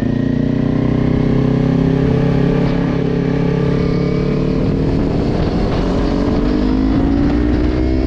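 Kawasaki Ninja 400's parallel-twin engine pulling in gear, its pitch rising slowly and steadily as the bike gains speed, then dropping at the very end.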